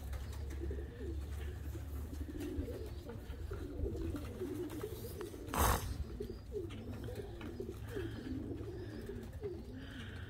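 A loft full of domestic homing pigeons cooing, many low coos overlapping without a break, with one sharp knock a little past halfway.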